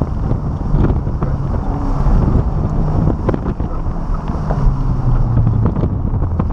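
Honda Civic Type R's turbocharged four-cylinder engine pulling under throttle as the car accelerates hard from walking pace to about 40 mph, heard from inside the cabin with wind noise.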